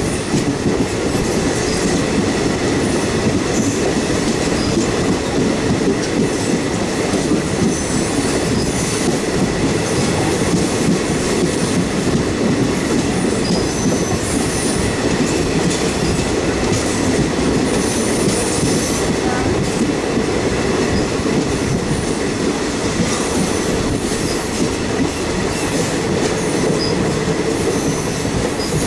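Electric train running steadily along the track, a continuous rumble of wheels on rails heard from the side of the cab, with brief high wheel squeals now and then.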